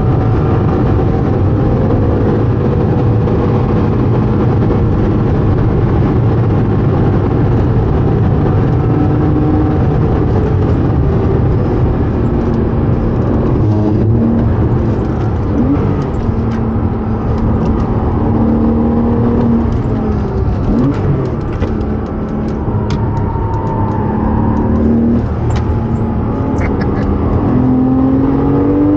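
Porsche Cayman S 3.4-litre flat-six engine pulling hard at speed, heard from inside the car with road and wind noise. The engine note climbs and drops repeatedly through the gears.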